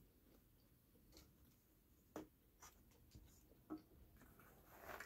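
Near silence with faint mouth sounds of a man chewing pizza: a few soft clicks and smacks, and a short faint rustle near the end.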